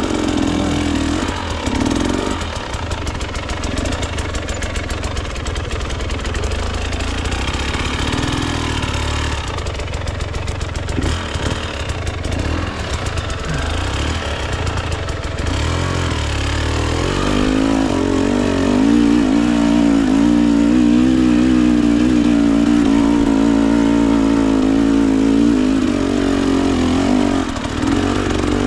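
Two-stroke enduro dirt bike engine, a Husqvarna TE 300, being ridden. Its pitch rises and falls with the throttle for the first half. From about 17 seconds in it holds a steadier, louder, higher rev.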